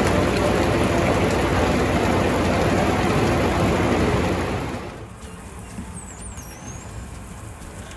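Farm machinery engine running loudly, then fading out about four and a half seconds in. A brief high chirp follows in the quieter part.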